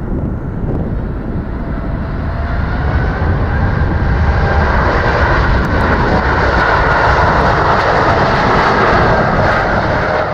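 Airbus A321-231's IAE V2500 turbofan engines at takeoff thrust: a jet roar that grows louder over the first few seconds and then holds steady, with faint high whining tones riding on it.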